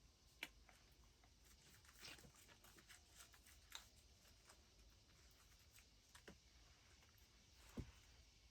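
Near silence with a few faint, scattered clicks and rustles of small craft pieces being handled. The loudest click comes near the end.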